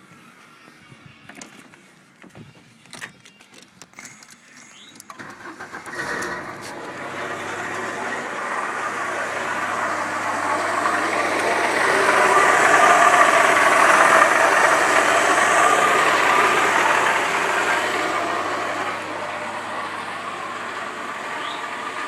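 1998 VW Golf engine starting after a few clicks about five seconds in, then running with a sound that swells to a peak near the middle and eases back to a steadier run near the end; the owner calls its sounds very strange.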